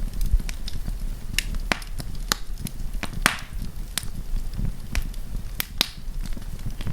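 Wood campfire crackling: irregular sharp pops and snaps, about a dozen, over a steady low rumble of the flames.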